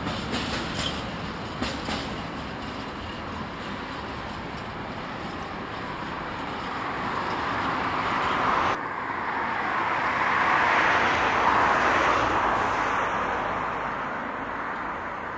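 Long train of container flat wagons rolling slowly through a marshalling yard: a steady rumble of wheels on rail with a few clicks over the rail joints at first. The wheel noise swells to its loudest a couple of seconds after the middle, then fades.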